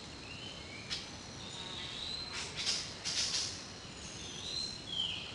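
Faint bird calls, a few short whistled notes gliding in pitch, over a steady hiss, with a few brief rustling bursts around the middle.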